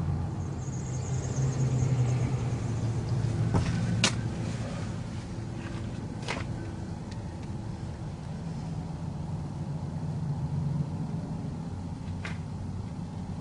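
Steady low rumble, like a distant engine or machinery hum, with a few sharp clicks about four, six and twelve seconds in.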